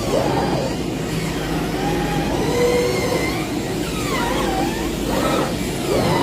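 CNC fabric cutting machine running, its drive motors whining in repeated rising and falling glides as the cutting head speeds up, slows and changes direction, over a steady mechanical running noise.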